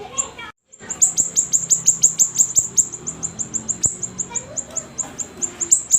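Siri-siri songbird calling in a fast, unbroken run of short, high chirps, each sliding downward, about four or five a second. A brief dead silence breaks the run about half a second in.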